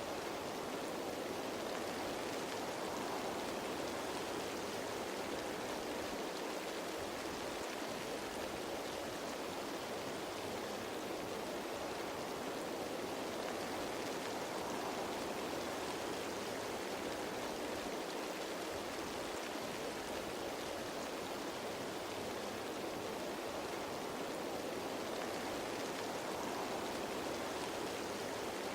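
Steady rain pattering on foliage, an even hiss without separate drops standing out or any change in level.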